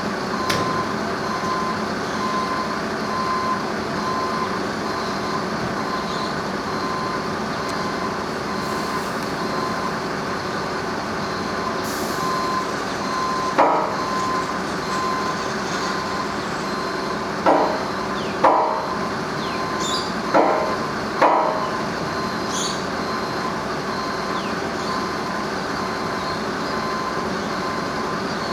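A heavy vehicle's engine running steadily, with a pulsing beep like a reversing alarm throughout. Five short, loud pitched sounds come in the middle.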